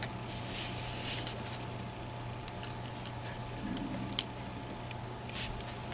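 Faint handling of small parts from a disassembled EVVA ICS lock: light clicks and brief scrapes, with one sharper click about four seconds in, over a steady low hum.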